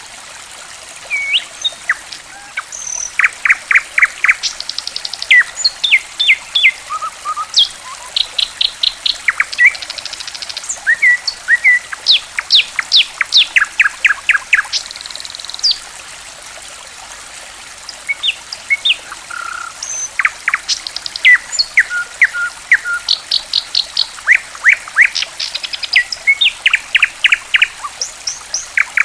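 Songbirds chirping and trilling in quick, repeated high notes over the steady gurgle of trickling water, with a lull of about two seconds past the middle where only the water is heard. It is a lure recording played to coax silent cage birds into singing.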